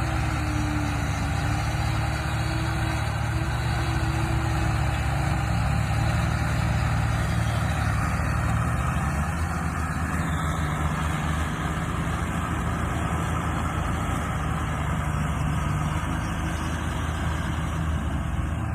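Tractor diesel engine running steadily, its sound strongest in a deep, even low note with no pauses or big changes in speed.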